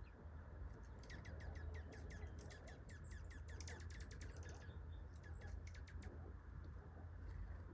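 A bird calling a fast run of short, sharp, down-slurred chips, about six a second, starting about a second in and stopping about a second before the end, over a low steady rumble.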